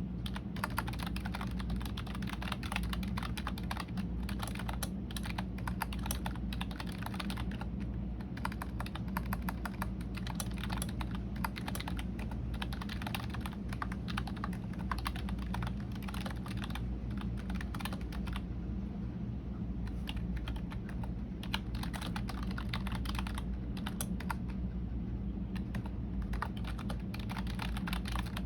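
Continuous typing on a computer keyboard: fast, irregular key clicks in long runs, thinning to scattered keystrokes twice in the latter half, over a steady low hum.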